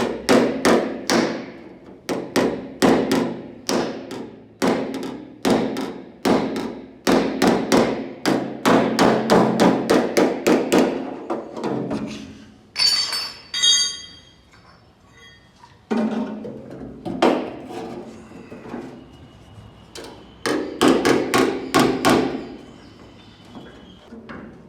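Body hammer striking a car door's hard sheet steel in quick repeated blows, about two to three a second, each with a short metallic ring. The hammer is knocking down the high spots while a dent is worked out. There is a fast run of strikes, a pause of a few seconds near the middle, then another run.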